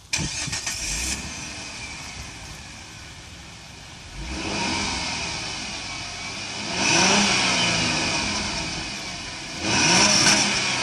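1998 Chrysler Concorde's V6 running through a straight-piped exhaust with the muffler and resonator removed: it starts up, settles to idle, then is revved three times, each rev climbing quickly and dropping back to idle.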